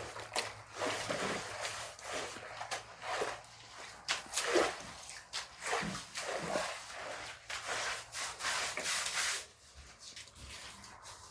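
Irregular wet splashing and rubbing, as of washing with a wet cloth and water, going on busily and stopping about nine and a half seconds in.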